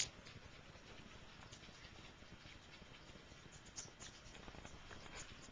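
Near silence: room tone with a sharp click at the start and a few faint taps.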